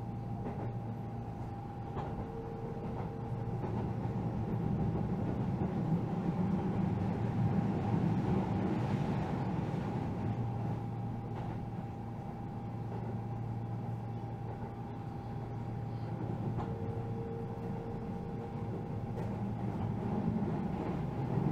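Keihan electric train running at speed, heard from inside the passenger car: a steady rumble of wheels on the rails with a thin steady hum above it, swelling a little and easing off again.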